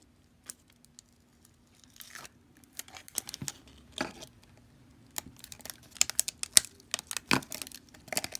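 A slime container being opened and a stiff, clay-like slime handled: scattered clicks at first, then a growing run of sharp crinkling and crackling, busiest near the end.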